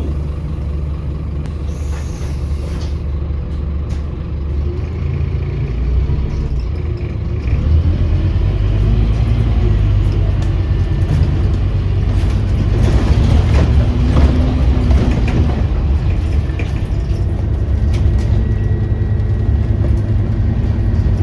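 Scania OmniCity bus heard from inside the cabin: diesel engine and road rumble, growing louder about seven seconds in as the bus pulls harder. There is a short hiss of air about two seconds in.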